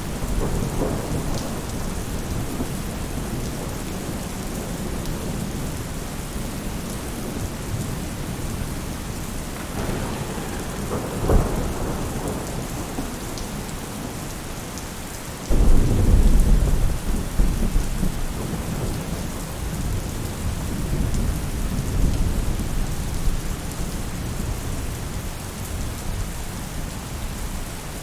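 Steady rain falling on a roof, with rolls of thunder: a low rumble about ten seconds in, then a sudden louder clap about halfway through that rumbles on for a few seconds before fading back under the rain.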